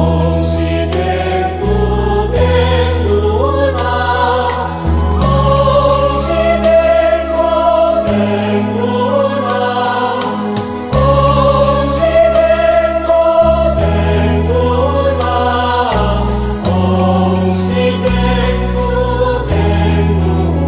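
A Buddhist devotional hymn in praise of Guanyin, sung by voices over sustained low accompaniment notes that change every couple of seconds, with a steady beat of light percussion strokes.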